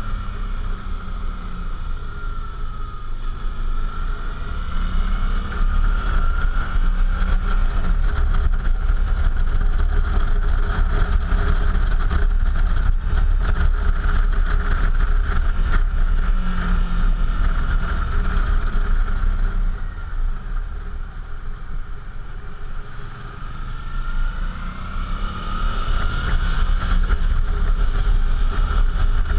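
Suzuki V-Strom motorcycle engine running while riding, with a steady low rumble. The engine pitch rises and falls with the revs, and it quietens for a few seconds about two-thirds of the way through.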